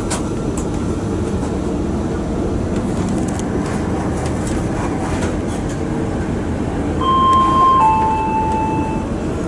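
Diesel train running with a steady low rumble. About seven seconds in, its two-tone horn sounds: a high note dropping to a lower one, about two seconds in all.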